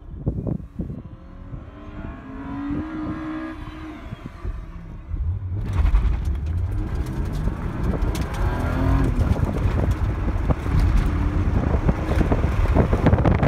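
1988 Toyota Supra's 7M-GE straight-six, heard from inside the cabin, pulling hard on an autocross course. The engine note climbs, drops at a gear change about four and a half seconds in, then carries on under a loud rush of wind and road noise.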